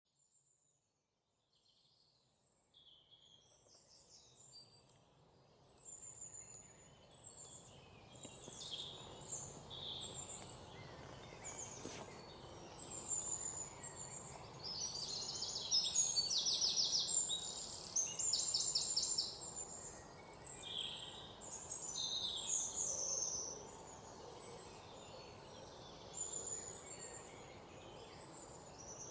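Several songbirds chirping and singing over a steady background hiss, fading in from silence over the first several seconds. The singing is busiest in the middle, with fast trills.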